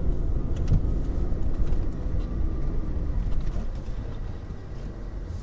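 Jeep Liberty's engine running under load as the SUV plows through deep snow: a steady low rumble with scattered light ticks, easing off a little near the end as it bogs down.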